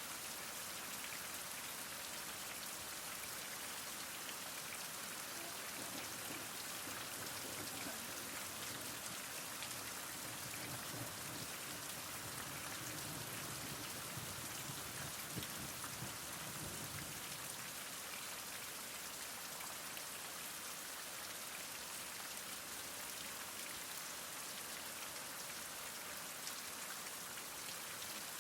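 Heavy rain falling steadily, a continuous hiss of many drops, with a faint low rumble in the middle stretch and a few louder single drops.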